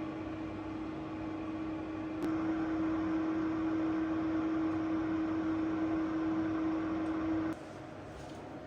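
Electric kitchen appliance motor humming steadily with one steady tone. After a click about two seconds in it runs louder, then it cuts off suddenly near the end.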